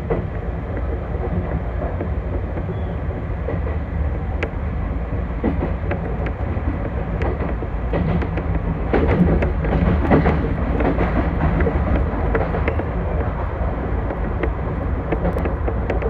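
Chichibu Railway electric train running on the line, heard from the front of the train: a steady rumble of wheels on rail with scattered clicks over joints. It gets briefly louder a little past the middle.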